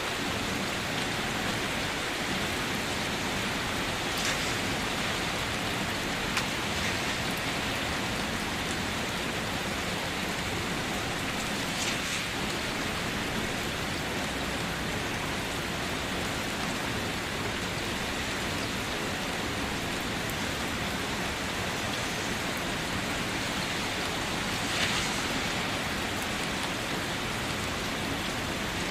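Steady rain falling, an even hiss of rainfall with a few louder individual drops landing about 4, 12 and 25 seconds in. No thunder.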